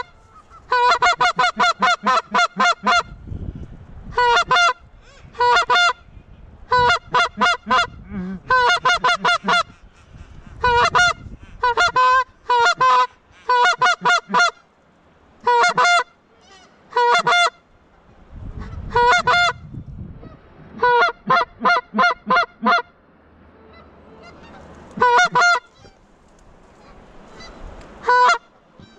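Loud goose-like honking: steady-pitched notes in quick runs of about three to seven, repeated with short pauses.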